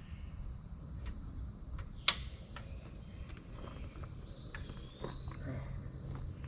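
Night insects, crickets, chirring steadily, with scattered sharp snaps, one loud one about two seconds in. A low steady hum comes in during the second half.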